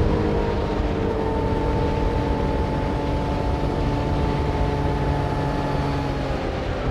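Yamaha MT-09 motorcycle's inline-three engine running under steady throttle, its pitch easing slowly down, over steady wind and road noise.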